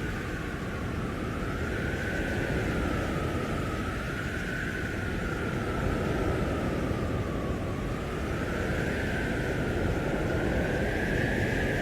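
Howling blizzard wind: a steady rush with a thin whistling howl that slowly wavers up and down in pitch, swelling every two or three seconds.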